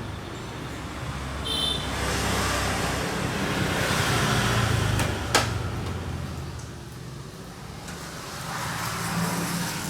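Road traffic noise swelling and fading as vehicles pass, with a brief high tone about one and a half seconds in and a sharp click about five seconds in.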